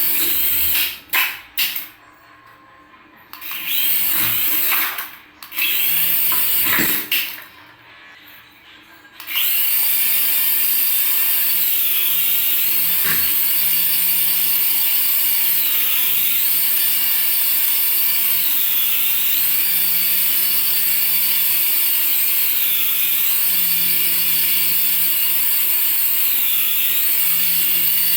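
Small electric motor of a radio-control toy whining. It cuts out and restarts a few times in the first several seconds, then runs steadily, its pitch dropping and climbing back every few seconds as the throttle is eased and opened.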